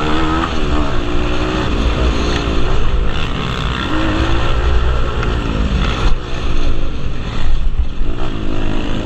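Several pit bike engines revving on a motocross track, their pitch repeatedly rising and falling as they accelerate and back off, over a steady low rumble.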